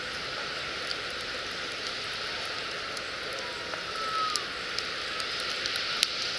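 Wood fire burning in a campfire stand: a steady hiss with scattered sharp crackles and pops, the loudest pop about six seconds in.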